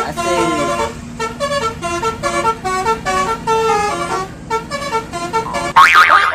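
Basuri telolet bus horn playing a quick melody of short, stepped musical notes, cut off near the end by a sudden loud burst.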